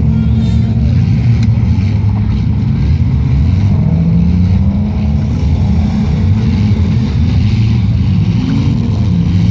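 Demolition derby car engines running and revving, loud and continuous, their pitch rising and falling as the drivers work the throttle.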